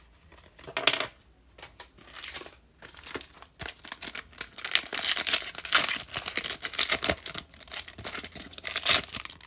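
Wrapper of a Topps Fire baseball card pack being torn open and crinkled by hand, in irregular crackling bursts that grow busier and louder about four seconds in.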